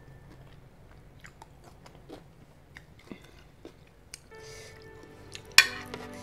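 Close-up mouth sounds of someone eating noodles in soup: chewing with small wet clicks. A single sharp clink of a metal spoon against the bowl comes near the end.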